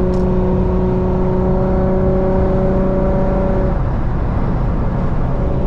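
Car driving at highway speed: heavy low road and engine rumble with a steady exhaust drone that drops away a little before four seconds in and returns near the end.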